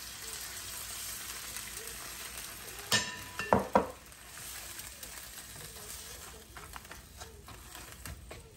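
Blue crabs and scallions sizzling in a hot frying pan as liquid is poured in from a bowl. About three seconds in comes a ringing metallic clank and two sharp knocks. The sizzle then goes on a little quieter, with light taps of a spatula near the end.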